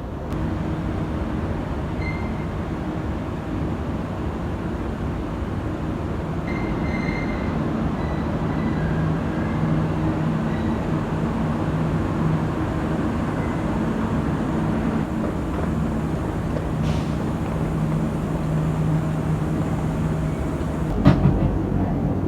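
KTM ETS electric train running, a steady rumble with a low hum that builds slowly; a sharp click about 21 seconds in.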